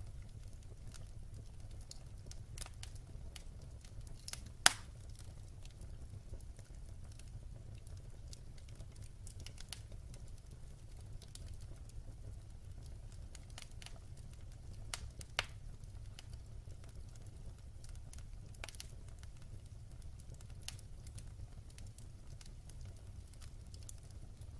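Wood fire burning in a fireplace: a steady low rumble with scattered crackles and pops, the sharpest pop about five seconds in and another about fifteen seconds in.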